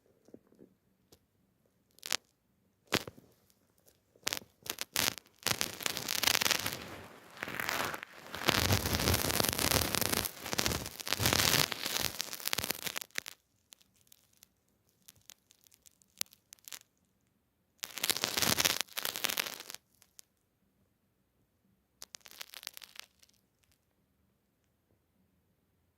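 A cat rustling and scratching at its bedding in bursts: a few short scratches, then a long stretch of rustling, then two shorter bursts near the end.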